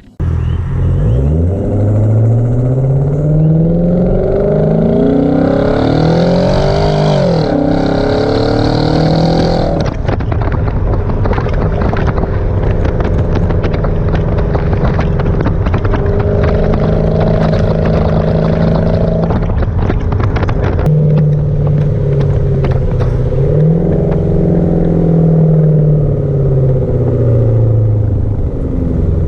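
Hyundai Genesis sedan's V8 engine through a muffler-delete exhaust, pulling hard with its pitch climbing, dropping sharply about seven seconds in, then cruising at a steady drone with light crackle and a few easy rises and falls in revs.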